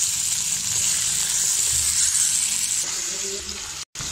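Chicken pieces sizzling in hot oil in a karahi as they are stir-fried and turned with a wooden spatula: a steady frying hiss, cut off for an instant near the end.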